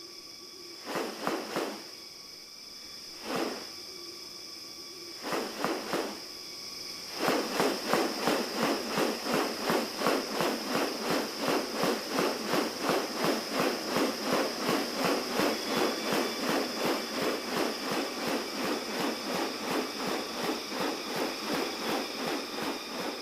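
Rainforest ambience with a steady high insect drone. Over it come a few separate short rasping bursts, then, from about seven seconds in, a long fast run of rasping pulses at about three a second.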